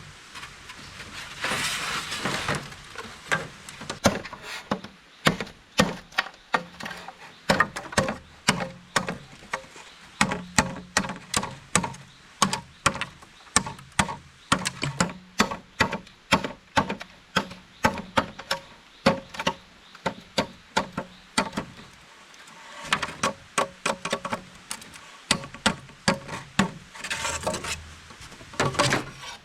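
Repeated sharp chopping knocks on bamboo, two to three strokes a second, with stretches of rustling noise near the start and again near the end.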